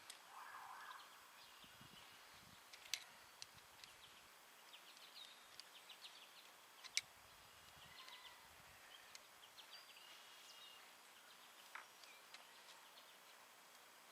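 Faint birds chirping in the background, with a few sharp clicks, the loudest about seven seconds in.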